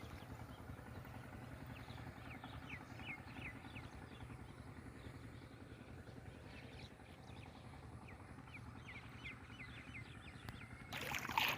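Small birds chirping over and over, short quick calls, over a faint steady low rumble, with a louder noisy burst near the end.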